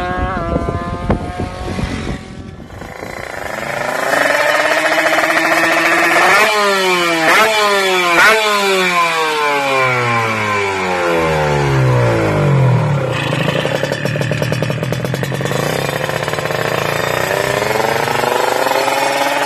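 Kawasaki Ninja 150 two-stroke single-cylinder engine being revved on the stand. It gives a few sharp throttle blips, then its pitch slides back down to a rattly idle, and it climbs again near the end.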